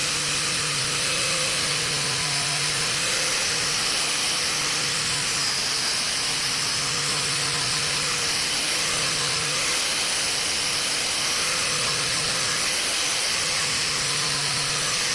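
Power-driven polishing wheel buffing a chrome-plated roller with polishing wax: a steady hissing whir with a low hum underneath.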